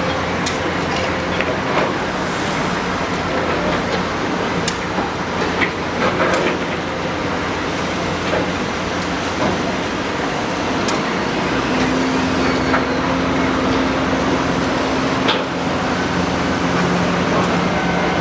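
Excavator at work: diesel engine running steadily under a continuous mechanical clatter, with scattered sharp metallic clanks and knocks. A steady higher tone joins in about twelve seconds in and drops away about five seconds later.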